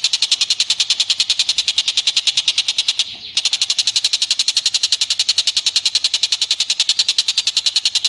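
Recorded animal call played as bird-training audio: a rapid, even chatter of sharp high notes, about ten a second, with a brief break about three seconds in.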